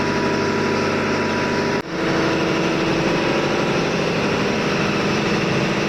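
Steady, loud drone of ship's engine-room machinery running. It breaks off for an instant a little under two seconds in, then carries on with a slightly different tone.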